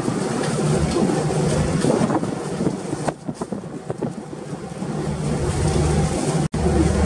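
Wind buffeting the microphone and sea noise aboard a ship under way, over the low steady drone of its engines. The noise eases for about a second in the middle and cuts out for an instant near the end.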